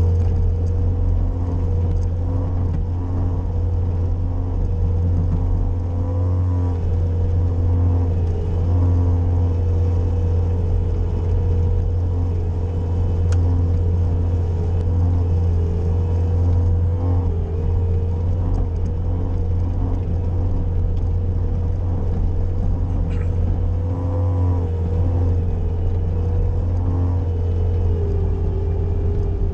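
Bobcat skid-steer's diesel engine running steadily under load while plowing snow, with a steady whine that dips slightly in pitch now and then.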